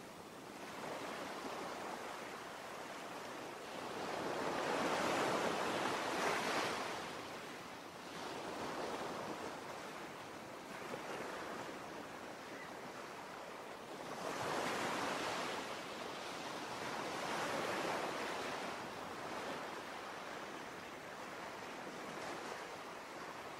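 Sea waves surging and washing in, a steady rush of surf that swells several times and ebbs between, the loudest surge about five seconds in.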